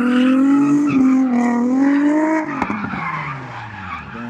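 Car engine held at high revs while its tyres squeal in a skid, the revs wavering and then falling away about two and a half seconds in.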